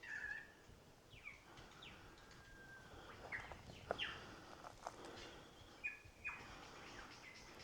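Superb lyrebird singing a varied run of mimicked calls, faint whistled notes mixed with downward-sweeping notes and a few sharp, short snaps.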